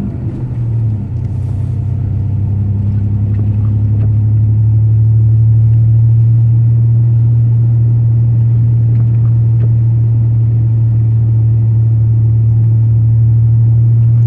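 Steady low drone of a truck's engine and tyres heard from inside the cab while driving, growing louder over the first few seconds and then holding steady.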